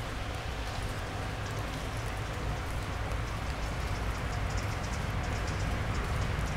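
A distant electric train approaching on the line, a low rumble growing slowly louder, over a steady hiss with many fine pattering ticks.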